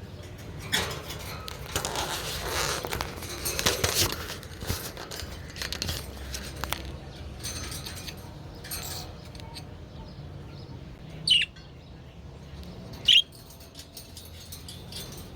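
Pet budgerigars fluttering their wings and splashing while they bathe, a busy rustling that eases off after about seven seconds. Near the end come two short, loud budgie chirps that fall in pitch.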